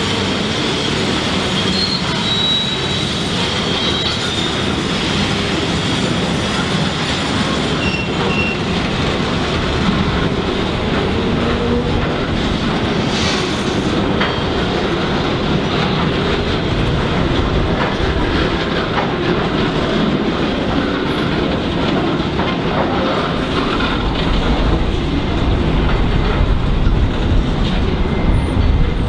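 Loaded aggregate hopper wagons of a freight train rolling past, wheels clacking over the rail joints, with a high wheel squeal in the first few seconds. The last wagon goes by about halfway through, and a steady rumble carries on after it.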